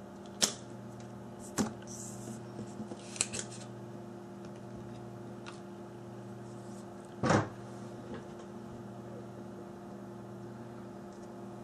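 Steady low electrical hum with a few sharp clicks or knocks, the loudest about seven seconds in.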